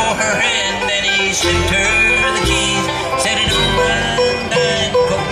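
Bluegrass band playing an instrumental passage, with banjo and guitar to the fore over a steady bass pulse.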